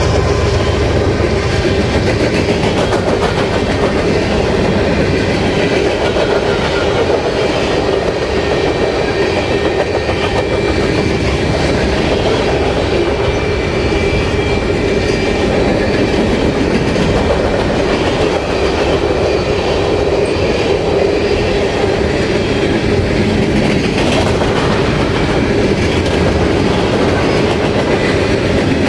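Freight cars of a long mixed freight train rolling steadily past: continuous wheel-on-rail rumble with clickety-clack over the rail joints and faint steady whining tones from the wheels. A deeper rumble eases off in the first second or so.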